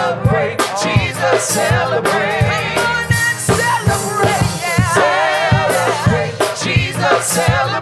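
Live gospel praise music: vocalists singing with vibrato over a band, with steady drum beats throughout.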